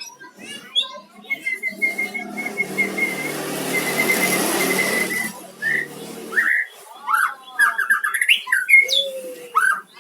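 White-rumped shama (murai batu) singing: short gliding whistles and chirps, becoming a quick, varied run of notes in the second half. Through the first half a broad rushing noise swells and fades over a few seconds, carrying a thin steady high tone.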